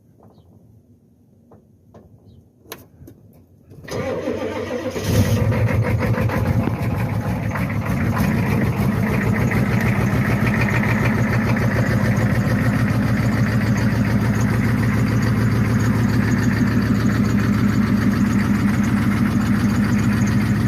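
1992 Ford F-250's 7.3 IDI diesel cold-starting after sitting a couple of days: a few faint clicks, then about four seconds in it cranks briefly, catches about a second later and settles into a steady, rhythmic idle.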